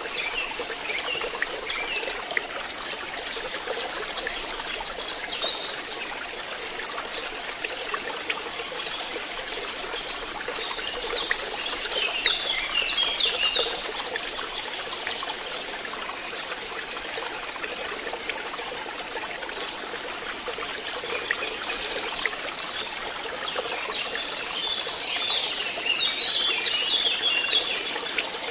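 Water trickling and splashing steadily into a fish pond, with birds chirping twice: around ten to fourteen seconds in and again near the end.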